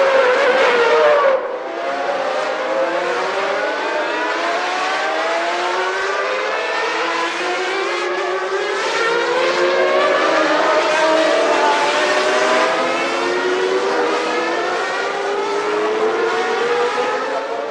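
A pack of 1991 Formula One cars accelerating together. Many engine notes overlap, each rising in pitch and dropping back as the cars shift up through the gears.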